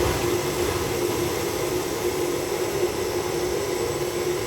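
A steady mechanical hum with a constant whirring hiss, the sound of a running motor or blower; it stays even throughout.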